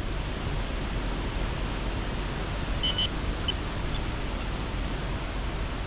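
Heavy wind blowing over the microphone: a steady rushing noise with low rumble. A brief high electronic beep sounds about three seconds in.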